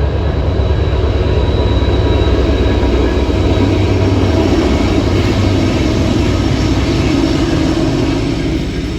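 Southbound grain train rolling past: a loud, steady low rumble of diesel locomotive engines and freight cars on the rails, with a faint thin high squeal in the first few seconds, easing off slightly near the end.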